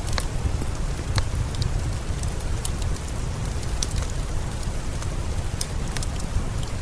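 Steady rain with a deep low rumble, mixed with a wood fire crackling: short sharp pops scattered at irregular moments.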